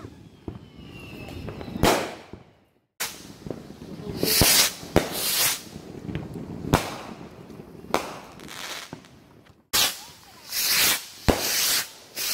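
Fireworks going off: repeated sharp bangs mixed with short bursts of hissing as shells launch and burst.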